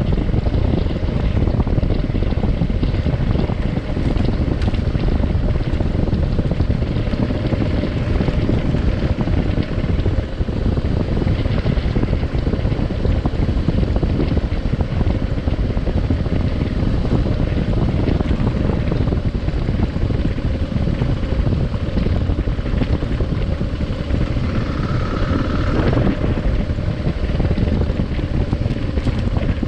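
Adventure motorcycle riding at a steady pace: the engine running under heavy wind noise on the microphone. A short higher-pitched tone stands out near the end.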